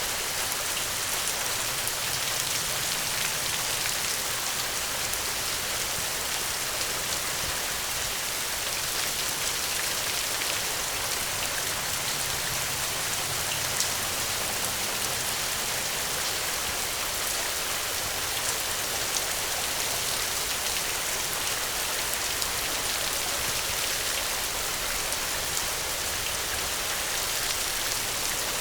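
Steady heavy rain: an even hiss with scattered small ticks of drops, one a little sharper about fourteen seconds in.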